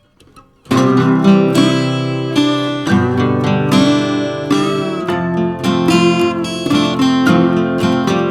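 Acoustic guitar music, strummed and picked, starting abruptly about a second in.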